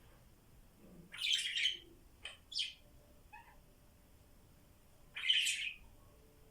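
Pet parrot giving scratchy calls: a longer call about a second in, two short ones just after, and another longer call near the end.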